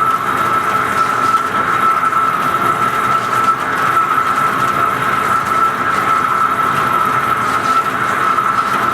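Metal lathe running steadily: a constant high-pitched whine over an even machine noise.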